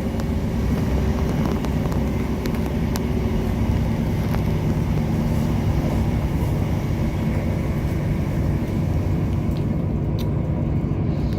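A train's diesel engine running steadily: a continuous low hum with several steady tones, and a few faint clicks over it.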